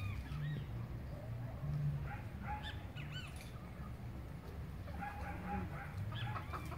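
Birds calling: short, arching chirps come in clusters, busiest about two and a half seconds in and again around five seconds in.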